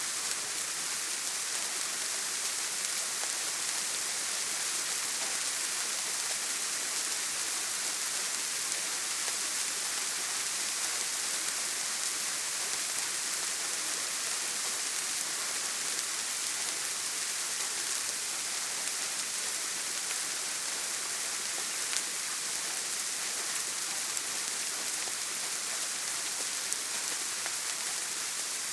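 Steady rain falling on a tin roof, an even high hiss with a couple of sharper single ticks near the end.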